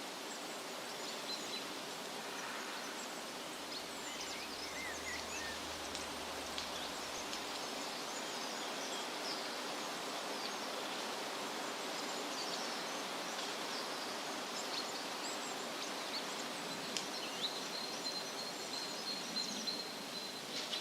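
Woodland ambience: wind rustling through leaves under a steady hiss, with small birds chirping and twittering on and off, and one bird holding a long thin high note near the end.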